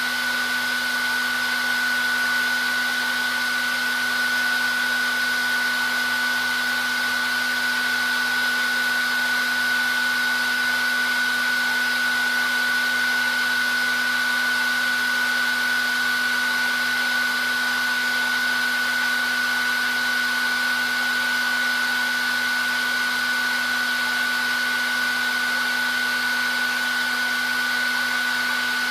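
Hair dryer running steadily, its airflow a constant rush with a steady high whine from the fan motor and a lower hum beneath.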